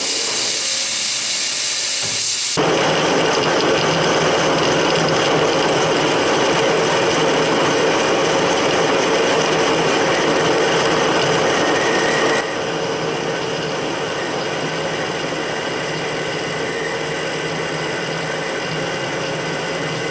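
Metalworking machine tool running while cutting a steel workpiece: a steady, noisy machining sound that changes abruptly twice, about two and a half seconds in and again about twelve seconds in.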